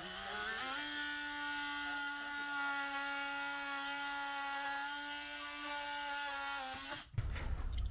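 Small electric power tool motor spinning up, then running at a steady speed for about seven seconds before cutting off abruptly.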